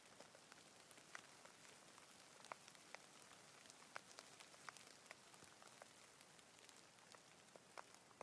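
Faint, light rain: a soft steady hiss with individual raindrops ticking sharply and irregularly, several a second.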